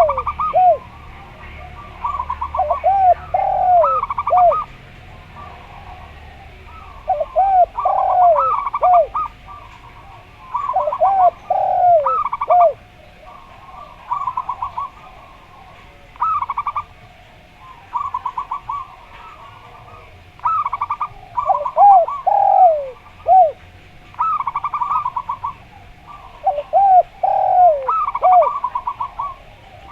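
Zebra dove (perkutut) and spotted dove (derkuku) calling together in phrases every few seconds: the zebra dove's quick run of short staccato cooing notes, overlapping the spotted dove's lower, falling coos.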